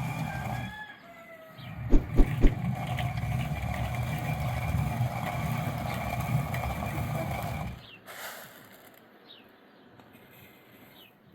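An engine runs steadily, with three loud knocks about two seconds in. It stops near the end, leaving a quiet background with a few short bird chirps.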